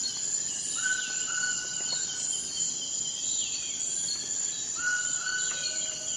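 Rainforest ambience: a steady high-pitched insect drone with birds calling over it, one repeating a short whistled note held for about half a second every couple of seconds.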